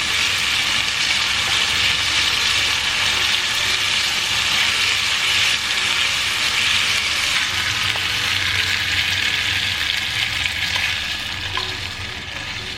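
Food sizzling as it fries in oil in a pan, a steady dense hiss that eases off slightly near the end.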